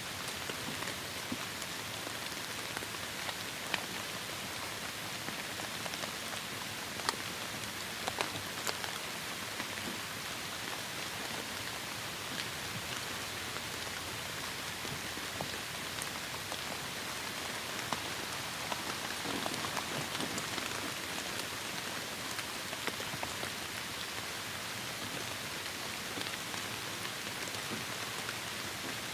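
Heavy rain falling steadily, a dense even hiss with scattered sharper drop impacts.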